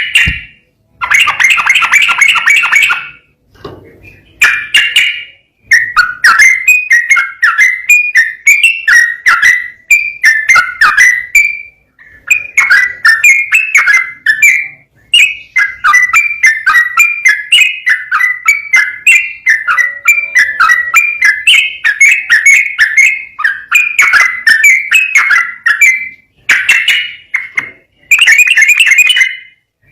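Yellow-vented bulbul (trucukan) singing a fast, run-on song: long strings of quick bubbly notes, broken by short pauses every few seconds.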